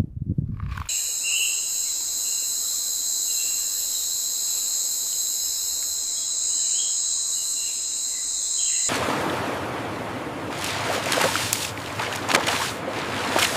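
Steady high-pitched insect chorus with a few bird chirps. About nine seconds in it cuts suddenly to a broad rushing noise with scattered crackles.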